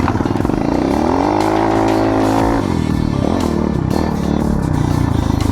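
Off-road vehicle engine revving: the pitch climbs in the first second, holds high for over a second, then drops back, and the engine keeps running and varying afterwards.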